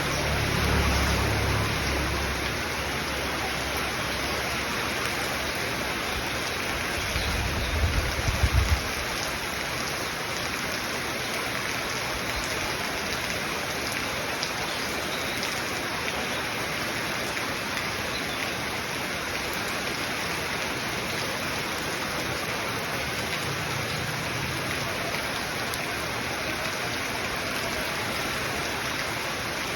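Steady heavy rain falling, an even hiss throughout. A low rumble sounds in the first couple of seconds, and a few short low bursts come about eight seconds in.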